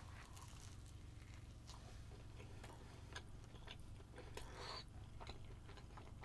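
Faint chewing and biting into a breakfast burrito, with scattered soft clicks and a slightly louder stretch about four and a half seconds in.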